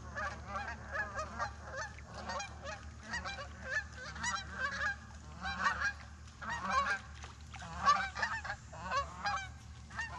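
A flock of geese honking, many short calls overlapping in a continuous chorus.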